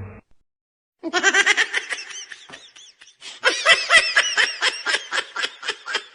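A laughter sound effect: rapid, high-pitched cackling, a string of quick bursts several times a second, starting about a second in and thinning out near the end.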